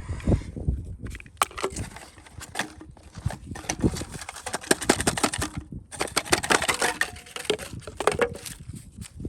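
Small hand tools and parts on a phone under repair, clicking, tapping and scraping at an irregular pace.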